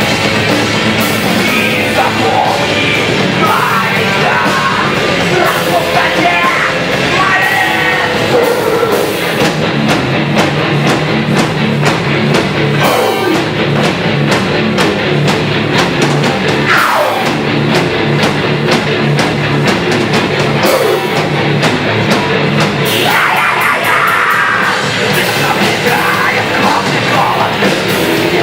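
Loud heavy rock music with distorted guitars and drum kit, with sung or shouted vocals in places.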